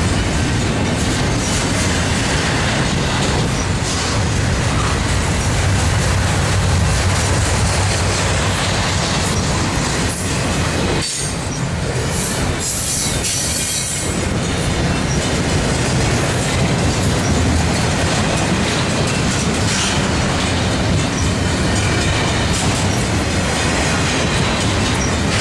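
Double-stack intermodal container well cars rolling past close by: a steady, loud rumble of steel wheels on rail with the rhythmic clatter of trucks passing over the rails.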